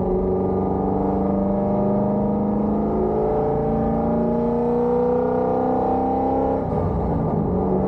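Cammed C5 Corvette Z06's LS6 V8 through long-tube headers and Borla ATAK mufflers, a loud droning exhaust note whose pitch climbs slowly as the engine pulls up through the revs. Near the end the note drops abruptly and settles lower.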